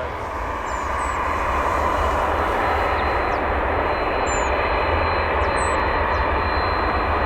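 Airliner engines running steadily: a broad, even rush of noise over a low rumble, with a thin steady high whine coming in about three seconds in.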